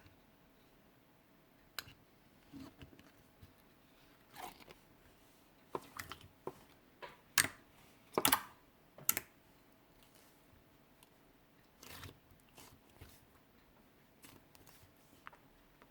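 Clear slime being handled, making scattered short sticky clicks and pops, loudest in a cluster about seven to nine seconds in.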